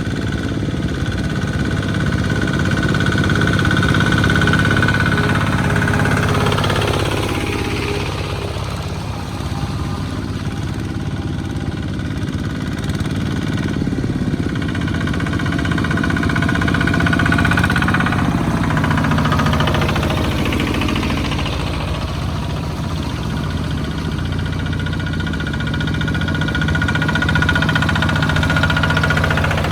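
Small farm tractor engines running steadily, with the engine pitch sweeping down and back up twice, about a third of the way in and again about two thirds in.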